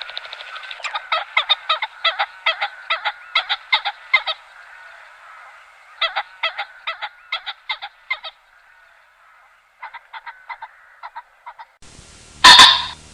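A bird calling in rapid series of short, harsh notes, about four a second, in three bursts with short pauses between them. Near the end a different, louder recording of animal calls cuts in.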